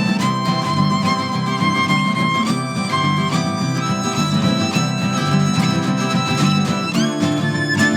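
Live band music in an instrumental passage: a fiddle holding long notes over an evenly strummed guitar.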